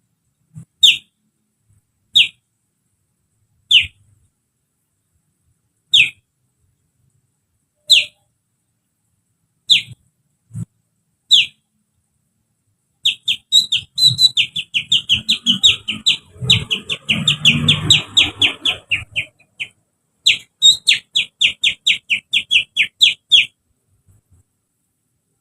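A person whistling through the fingers and hand in imitation of a sooty-headed bulbul (kutilang). Short, high, falling whistle notes come singly every couple of seconds, then about halfway through break into a fast run of falling notes, several a second. After a brief pause a second fast run follows.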